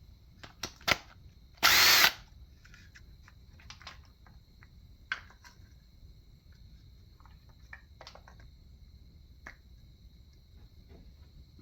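A power tool runs in one short burst of about half a second, among scattered clicks and clinks of hand tools and engine parts.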